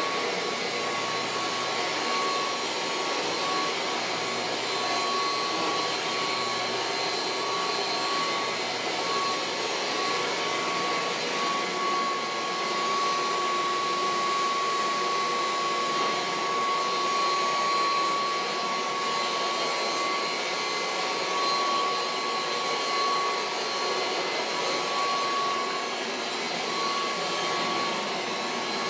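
Kirby Heritage II upright vacuum cleaner running steadily while vacuuming: a steady rush of air with a high whine over it.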